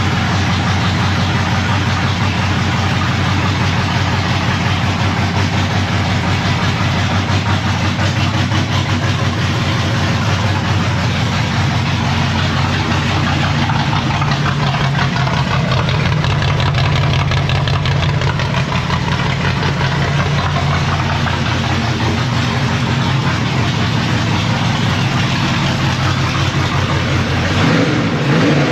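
Street Stock Monte Carlo race car's engine idling steadily, its pitch lifting slightly about halfway through, with a short blip near the end. It is running after a fresh oil change while air is bled from the cooling system and oil pressure is checked.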